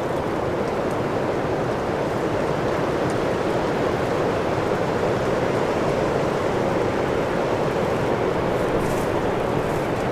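Strong wind rushing steadily, with no let-up.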